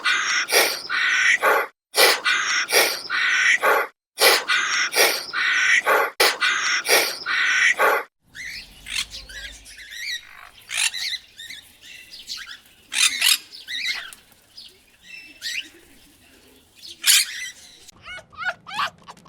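A dog yelping in a steady series of loud calls, about two a second, for the first eight seconds. Then birds chirp in scattered short calls, ending in a rapid run of quick falling whistled notes.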